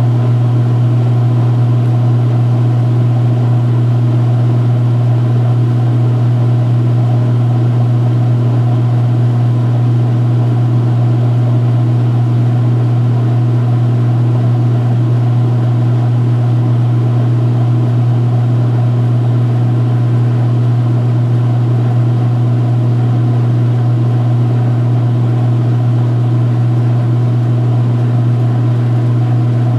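2016 Speed Queen washer spinning at a steady speed during the spin-drain after the wash, its motor and drain running with a loud, constant low hum.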